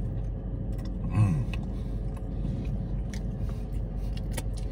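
A man chewing a mouthful of burrito, with small wet mouth clicks, and a brief hum from the throat falling in pitch about a second in. A steady low hum of the car cabin runs underneath.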